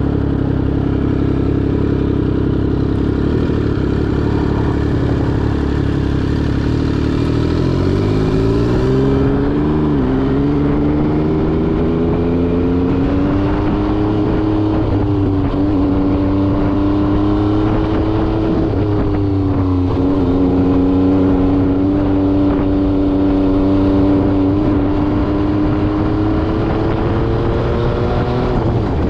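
MV Agusta Brutale 800RR three-cylinder engine through an SC Project exhaust, riding along. The engine note holds level at first, climbs about eight seconds in, drops sharply at a gear change near ten seconds, then runs at a steady pitch with a brief dip around twenty seconds.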